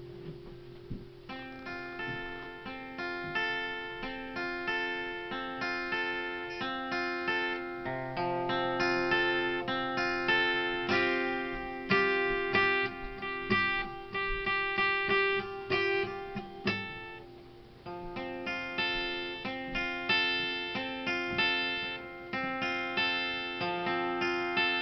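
Acoustic guitar playing an instrumental piece, single picked notes ringing over one another in a repeating pattern. About seventeen seconds in it thins out briefly before the pattern picks up again.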